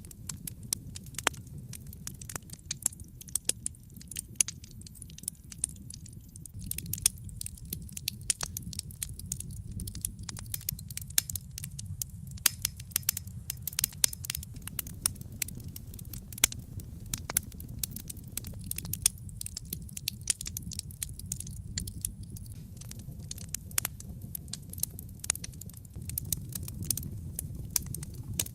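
Wood fire burning in a fireplace: a steady low rumble of flames under frequent, irregular sharp crackles and pops from the burning wood.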